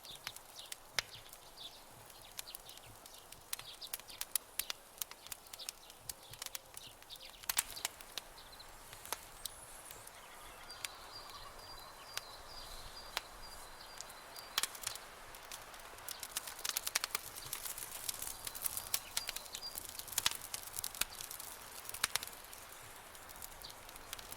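Campfire crackling, with many sharp irregular pops that grow denser in the second half, over a faint outdoor background. A faint high-pitched chirping trill comes in about halfway through and again briefly later.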